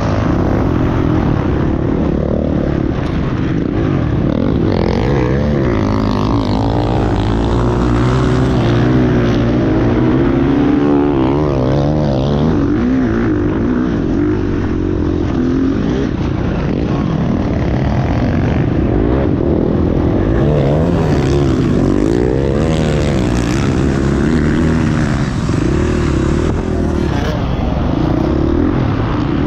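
Several motocross dirt bikes running on the track together, their engines overlapping as each revs up and drops back in pitch over and over through acceleration and gear changes.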